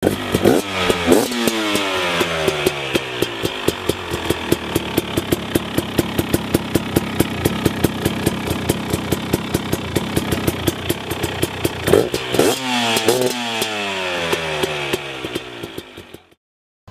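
KTM 250 SX two-stroke motocross bike running under hard throttle. Its engine note climbs sharply and drops as it shifts through the gears, once near the start and again about twelve seconds in, with steadier running in between. It fades away near the end.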